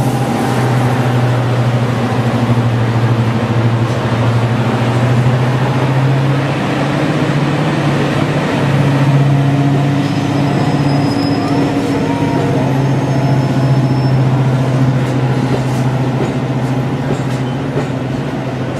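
Heavy railway diesel engine running steadily: a loud, even low drone with no change in pace.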